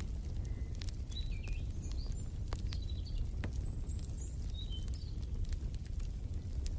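Fireplace fire crackling, sharp pops scattered over a steady low rumble, with small birds chirping in short high notes from about a second in until near the end.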